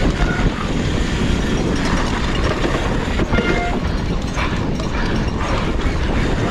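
Mountain bike clattering down a rough downhill trail: a loud, continuous rattle of the bike and tyres over the ground, with a brief high squeal a little over three seconds in.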